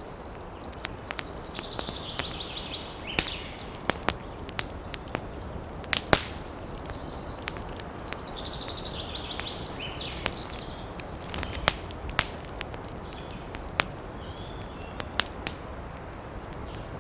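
Campfire crackling, with irregular sharp pops of burning wood over a steady rush of wind in the trees. A bird gives a high chattering call twice, and briefly once more near the end.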